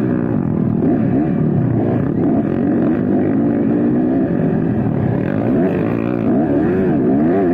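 Motocross dirt bike engines racing, their pitch repeatedly rising and falling as the throttle opens and closes.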